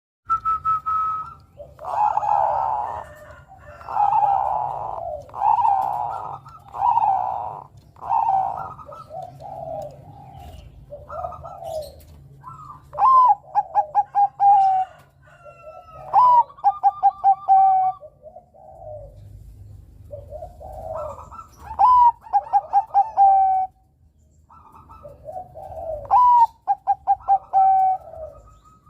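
Zebra dove (perkutut) cooing. Its song phrase is a rising note, a quick run of short clipped notes, then a held final note, and it comes four times, with softer coos between.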